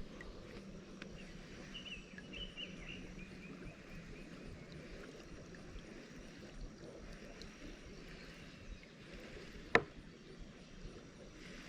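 Quiet outdoor ambience from a kayak on the water, with a few faint chirps in the first few seconds and one sharp knock near the end.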